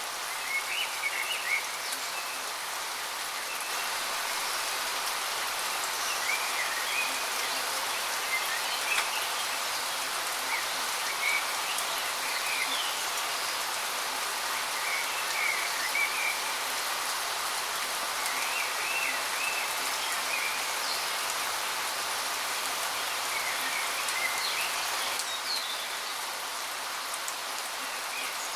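Steady rush of water falling from a waterfall, with a small bird's short chirping phrases repeating every couple of seconds. The water grows slightly louder a few seconds in and eases again near the end.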